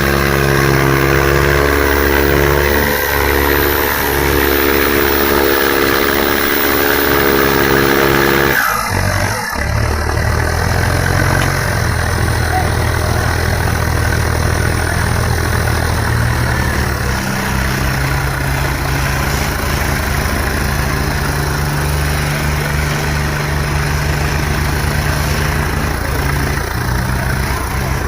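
Tractor diesel engine running steadily at high load, its note changing abruptly about eight and a half seconds in and then carrying on.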